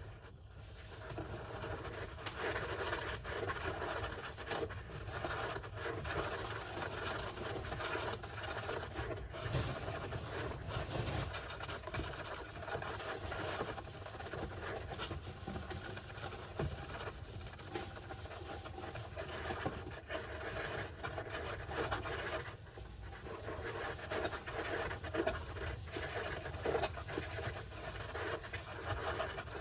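Golden hamster scratching and digging in its sand bath: a continuous gritty rustle, with a brief pause about 22 seconds in.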